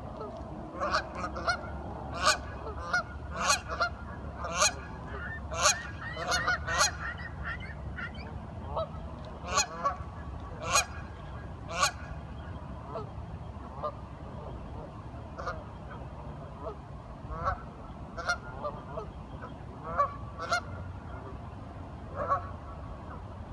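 A flock of waterfowl calling: many short calls overlapping, busiest in the first twelve seconds or so, then coming more sparsely.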